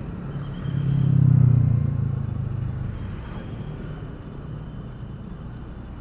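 Motorcycle ride in traffic: a steady low engine and road rumble, with a louder engine sound swelling up about a second in and fading away over the next second or so.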